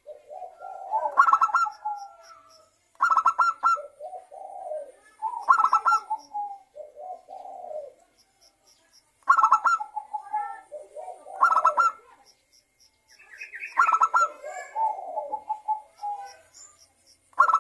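Zebra dove (perkutut) cooing: about seven repeated phrases, one every two seconds or so, each a quick stuttering burst followed by lower rolling coos.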